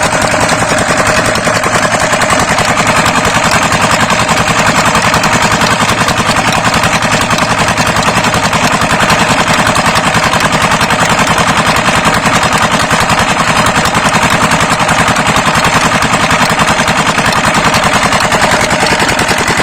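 Old single-cylinder Petter-type diesel water-pump engine running steadily, with a rapid, even exhaust beat.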